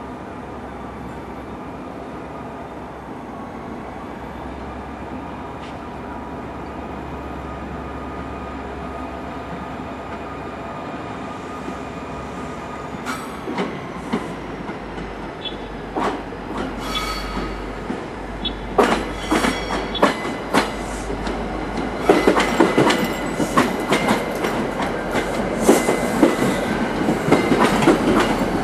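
A slow push-pull train of commuter cab cars shoved by an EMD GP40-2 diesel locomotive, approaching and passing close: a steady engine hum at first, then wheel clatter over rail joints and switches with a few brief wheel squeals starting about halfway, growing dense and loud near the end as the cars go by.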